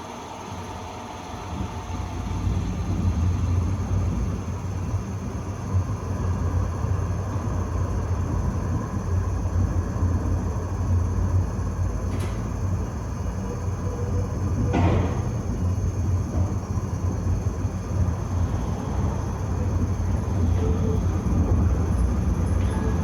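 Tram running along its line, a steady low rumble of wheels and motors that builds over the first two or three seconds. A light click comes about twelve seconds in, and a sharp knock about fifteen seconds in.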